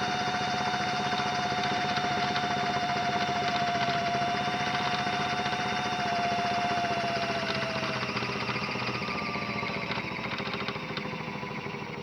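Small electric motor of a modified Miele toy washing machine running, a steady whine with fast rattling ticks; about two thirds of the way through the whine drops in pitch and the sound fades as the motor slows.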